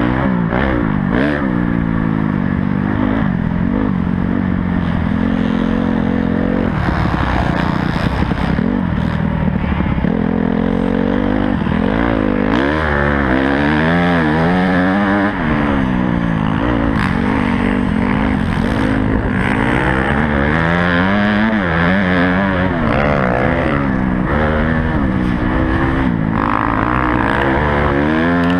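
Honda CRF250 four-stroke motocross bike engine being ridden hard, revving up and dropping back over and over as it accelerates and shifts around the track.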